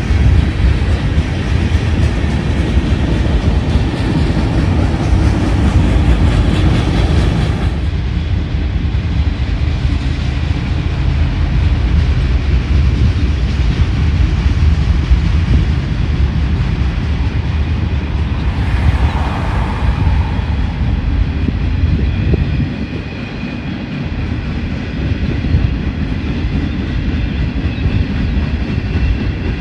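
A train rolling past on the track: a loud, steady rumble of rail cars that eases slightly about three-quarters of the way through.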